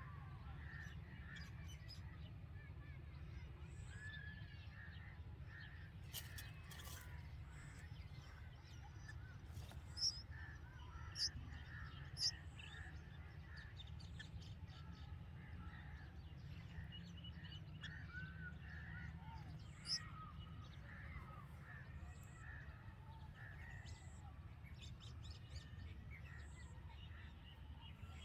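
Red-vented bulbuls calling around the nest: many short chirps throughout, with a few sharp, high chirps standing out about ten, eleven, twelve and twenty seconds in. A steady low hum lies underneath.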